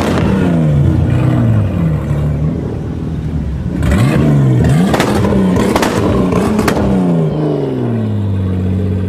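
Toyota MK4 Supra's straight-six engine revved repeatedly, its pitch climbing and dropping several times. Three sharp cracks come around the middle, and the revs fall back toward idle near the end.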